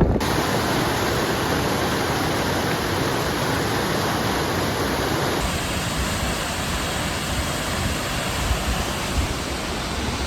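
Large mountain waterfall: a loud, steady rush of falling water, with a slight shift in tone about five seconds in.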